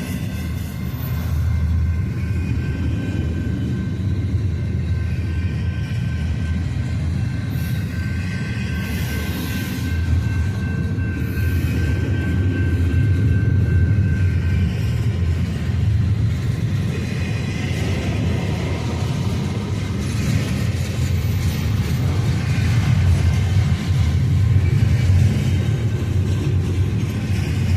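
Intermodal freight train's cars rolling past: a steady low rumble of wheels on rail, with a thin high steady tone through the first half.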